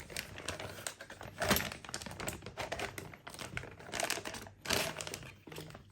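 Unboxed engine parts and their packaging being handled by hand: irregular clicks, taps and light rustling, a few knocks louder than the rest.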